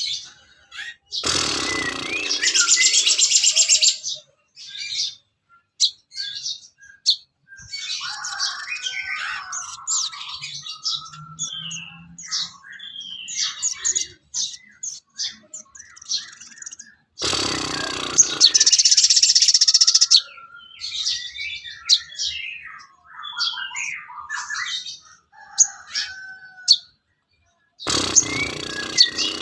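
Recorded songbird calls used as masteran for a sogon bird: varied quick chirps and short whistled glides. Three loud, dense chattering bursts stand out, one about a second in, one in the middle and one near the end.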